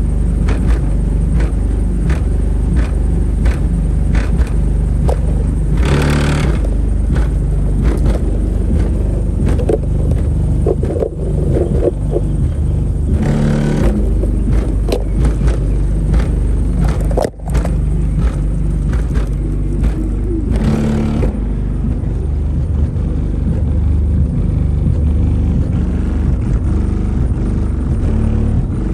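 Bass-heavy music played very loud through a compact car's subwoofer system, the deep low bass far louder than anything else, with a fast repeating beat.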